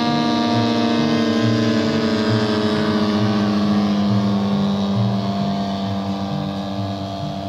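Radio-controlled model airplane engine running steadily, a buzzing tone with a slight fall in pitch, growing fainter over the last couple of seconds.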